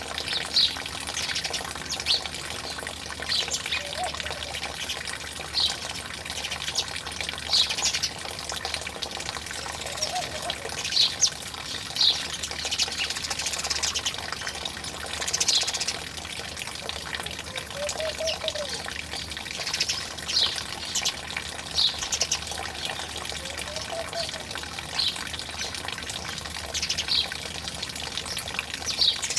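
Water trickling steadily under short, high bird chirps every second or two. Four times, about every six seconds, a soft low call rises and falls, fitting a laughing dove cooing.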